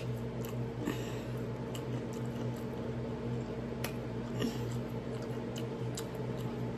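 Close-miked chewing of a fried chicken wing: irregular wet, squishy mouth sounds and small clicks, over a steady low hum.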